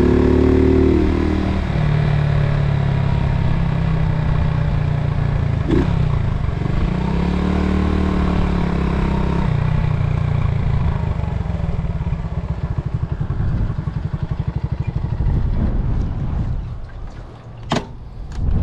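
1972 Honda SL70's small single-cylinder four-stroke engine running, its revs rising and falling, then settling into an even, pulsing idle before it dies away near the end, with a sharp click about two seconds from the end.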